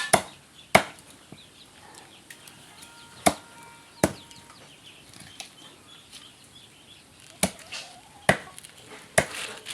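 A blade chopping duck meat: about seven sharp, separate chops, spaced unevenly.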